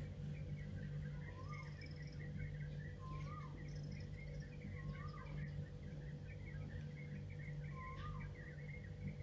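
Birds chirping over a low steady hum: one call that rises and falls repeats about every second and a half, with continuous quick chirping above it.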